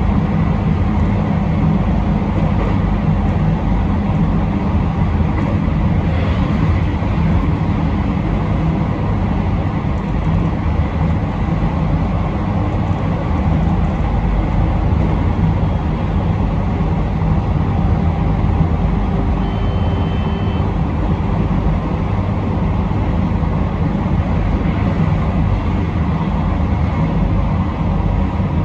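A train running along the line, heard from the front of the train: a steady, continuous low rumble of the running gear and drive. A brief high tone sounds once about twenty seconds in.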